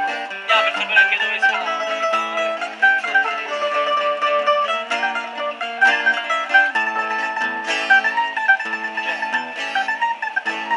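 Folk music on plucked string instruments: a quick picked melody played over repeating chords.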